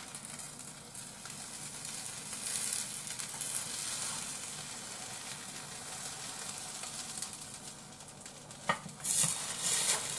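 A cabbage-and-egg pancake (cabbage-yaki) sizzling in a hot frying pan while a spatula scrapes around it. Near the end come a few louder scrapes and knocks as the pan is turned over onto a plate.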